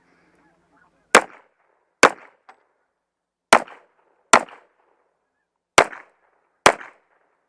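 Six pistol shots fired in three pairs, each pair under a second apart with a pause of about a second and a half between pairs, the first shot about a second in.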